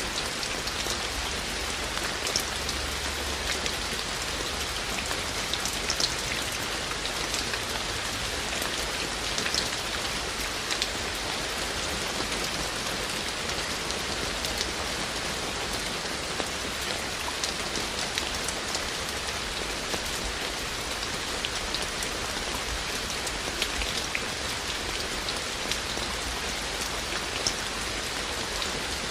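Steady rain falling, an even hiss with many individual drops ticking sharply on top.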